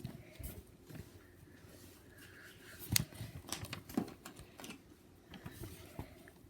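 Scattered light taps and clicks of a pen drawing on paper and being handled, with the two loudest taps about three and four seconds in.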